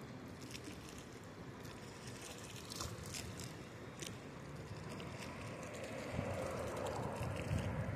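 Riverside ambience: a steady rush of wind and water with scattered small clicks, swelling louder near the end as wind buffets the microphone.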